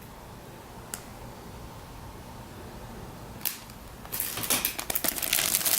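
Handling of the kit's plastic packaging: a light click and a knock, then from about four seconds in a dense crinkling and rustling of plastic as the bagged resin parts are handled.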